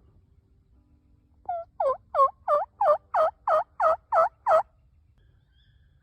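A run of about ten loud turkey yelps, about three a second, each note dipping in pitch and rising again.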